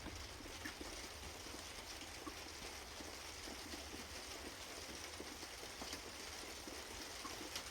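Faint steady hiss of running water with a few light ticks.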